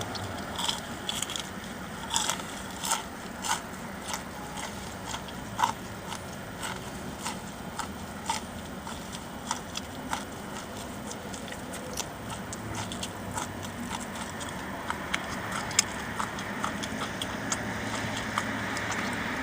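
A person chewing and eating food close to the microphone, with many short wet clicks and smacks of the mouth. A low steady hum comes in about twelve seconds in.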